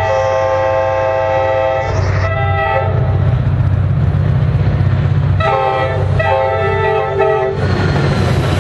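Locomotive horn sounding a chord of several notes in four blasts: a long one, a short one, then after a pause a short one and a long one, over the low rumble of an approaching train.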